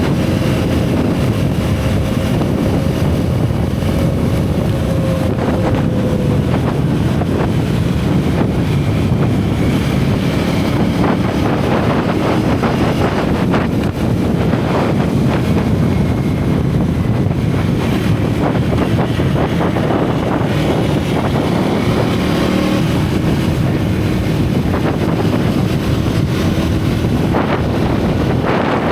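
Single-cylinder motorcycle engine and exhaust running at road speed, its pitch drifting slowly with the throttle, under heavy wind noise on the microphone.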